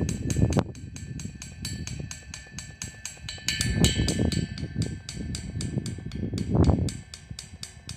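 Drums played: an even run of quick sharp strokes, about five a second, with heavier low hits three times.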